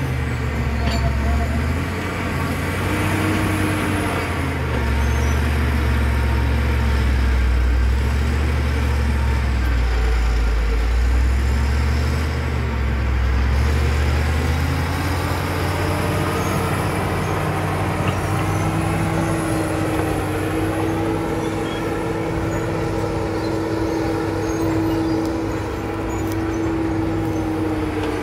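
Caterpillar D7 bulldozer's diesel engine running hard, its pitch dipping and rising again several times as it works.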